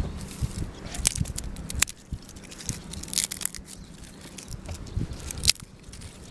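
Crunching and tearing as crisp toast is bitten and eaten, in irregular sharp crackles.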